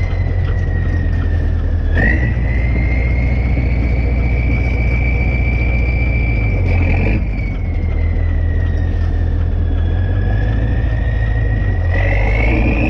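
Kirovets K-700A tractor's diesel engine running after a rebuild, a deep rumble under a high whine that sags and climbs with the revs. The whine jumps sharply twice, about two and seven seconds in, and rises again near the end as the engine picks up speed.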